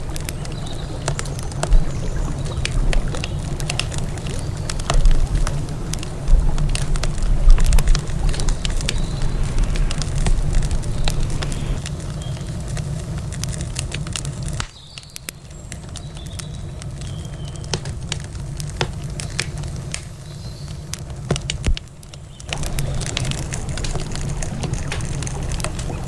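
Wood campfire crackling, with frequent sharp pops and snaps scattered irregularly throughout, over a steady low rumble. The rumble drops away for several seconds in the middle, then comes back.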